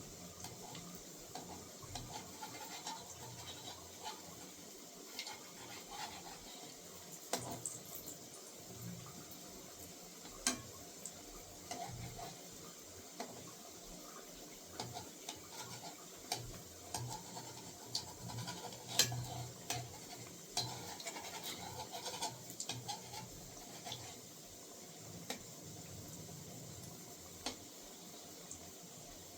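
Kitchen utensils and dishes clinking and scraping now and then during food preparation: scattered light clicks, the loudest a little before halfway and again near the middle.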